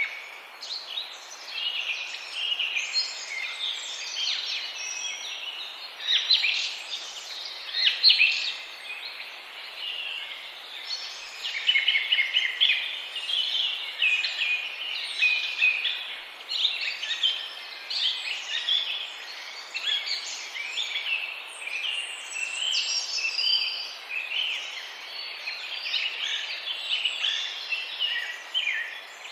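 A dense chorus of many small birds chirping and twittering, with their short, high calls overlapping without a break.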